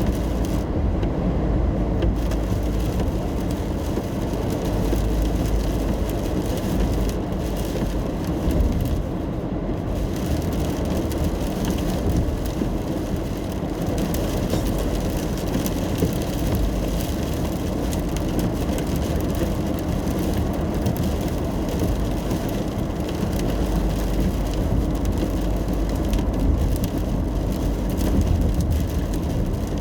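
Car driving in the rain, heard from inside the cabin: a steady low rumble of road and engine noise, with rain on the car.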